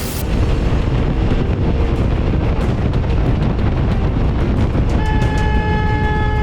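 Loud, steady rushing noise of a motorcycle riding on the road, with a steady horn sounding for about a second and a half near the end.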